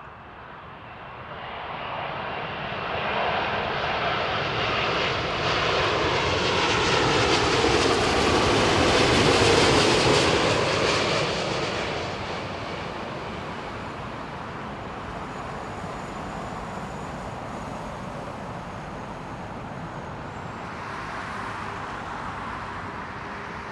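Vietnam Airlines Boeing 787-9 jet airliner on landing approach, its engines passing by. The sound swells to its loudest about ten seconds in, with a sliding pitch as it passes, then fades to a steady distant rumble.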